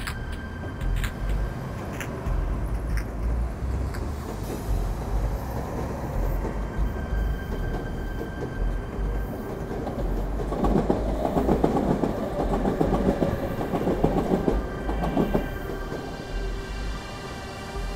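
Electric commuter trains running over the tracks and points of a station approach: a steady rumble, with a louder stretch of rapid wheel clatter from about ten to fifteen seconds in. A faint steady whine comes in near the end.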